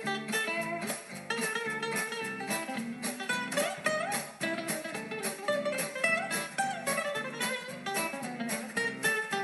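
Background music: an instrumental guitar track with plucked notes in a steady rhythm.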